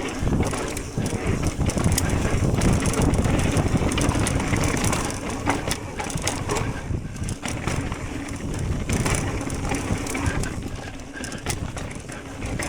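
Mountain bike riding a dirt trail: tyres crunching over dirt and rocks, with many quick clicks and knocks from the bike rattling over rough ground.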